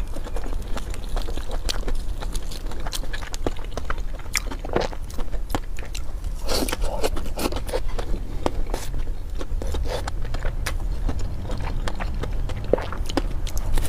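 Close-miked chewing and biting of food, a continual run of small irregular clicks and smacks of the mouth.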